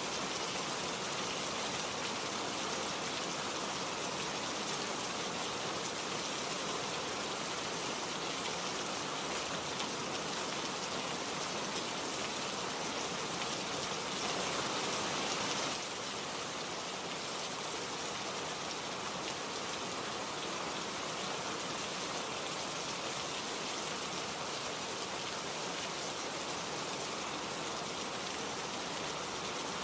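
Steady, dense rain falling, with a slightly louder stretch about halfway through that drops back suddenly.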